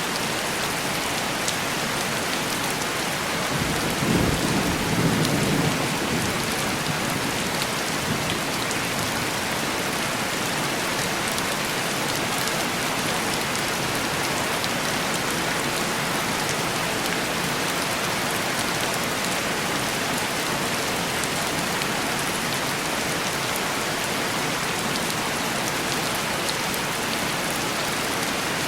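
Steady heavy rain on window glass, an even hiss, with a short low rumble of distant thunder about four seconds in.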